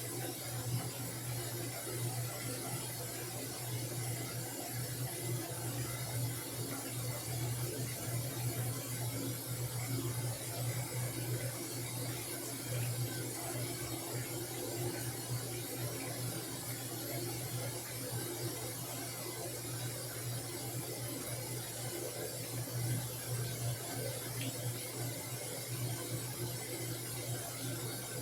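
Washing machine running with a steady low hum and a hiss of noise above it.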